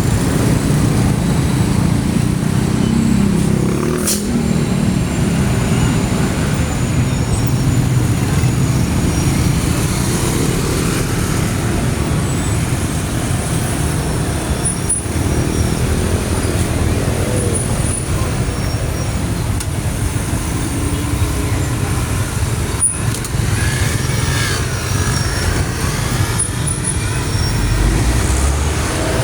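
Road traffic with a heavy truck's engine running, a steady low rumble. A brief wavering higher tone rises over it about 24 seconds in.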